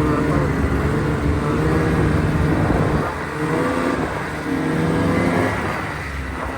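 A vehicle engine running under changing throttle, its pitch rising and falling as it revs, easing off about three seconds in and again near the end.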